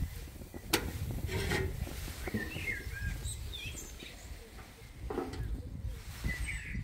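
Small birds chirping in short warbling phrases over a steady low outdoor rumble, with a single sharp click just under a second in.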